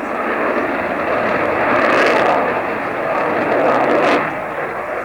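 Jet aircraft engine noise, a loud rushing that swells and eases off after about four seconds.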